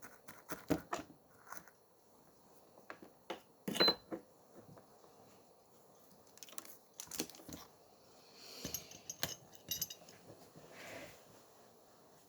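Small repair tools and watch parts clicking and tapping irregularly on a work surface, with a sharper knock about four seconds in and brief soft scraping later on.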